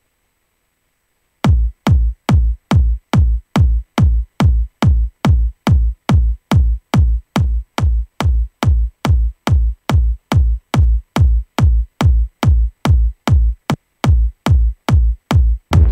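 Electronic kick drum playing a steady four-on-the-floor trance beat, about two kicks a second, each with a quick downward drop in pitch. It comes in after about a second and a half of silence and drops one beat near the end. A fuller hit with a cymbal wash starts at the very end.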